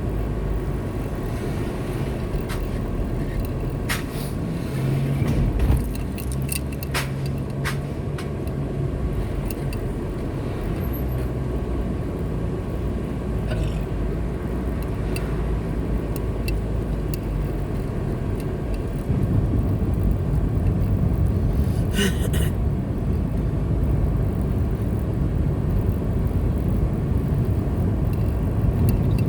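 A car driving along a street: steady low engine and road rumble, with a few brief clicks and knocks scattered through it. The rumble grows louder about two-thirds of the way through.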